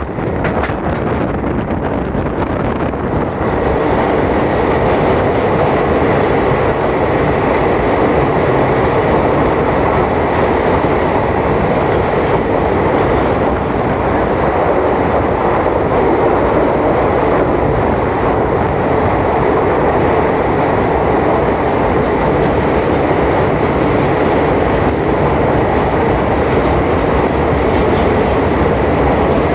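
Moving passenger train running along the track: a loud, steady rumble of wheels on rails, growing a little louder a few seconds in.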